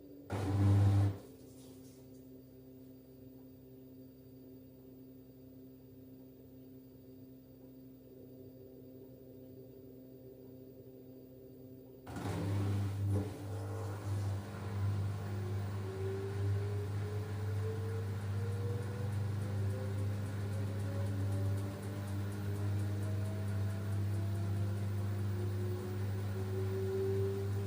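LG F10B8MD washing machine's drum motor. After a brief loud knock near the start and a quiet hum, the motor starts about twelve seconds in, and the drum speeds up for the spin: a steady low hum with a whine rising slowly in pitch. The bearings make no drone, which the owner takes as a sign the machine is sound.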